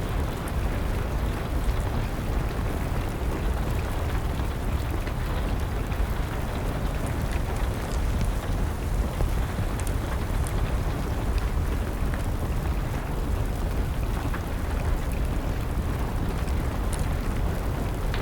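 Steady rain with a deep rumble underneath, and scattered small pops and crackles of a wood fire.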